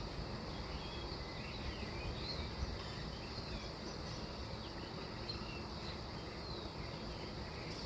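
Dawn ambience: scattered short bird chirps over a steady low rumble and a steady high hiss.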